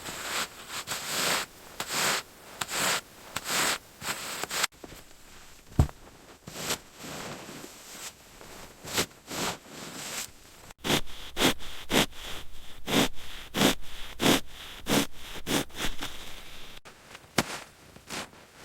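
Snow crunching in a steady series of strokes, about one to two a second, broken by a few abrupt cuts.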